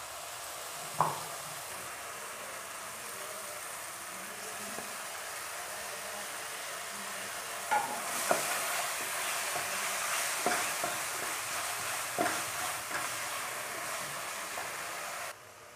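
Chopped tomatoes, onions and green chillies frying in oil in a nonstick wok, sizzling steadily, with a few sharp knocks and scrapes of a spatula stirring them against the pan. The sizzle cuts off abruptly near the end.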